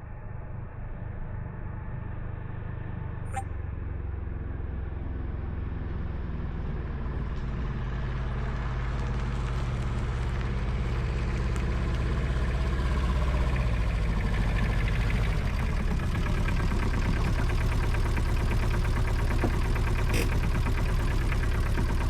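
Aixam D-Truck's small two-cylinder diesel engine running under way, growing steadily louder, with its drone shifting in pitch a few times as speed changes.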